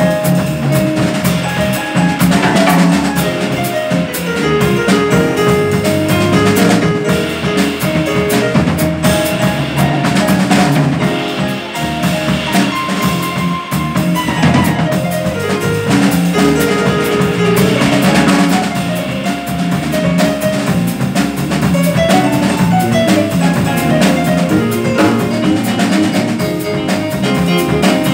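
Jazz quartet of saxophone, piano, double bass and drum kit playing, with busy drumming throughout.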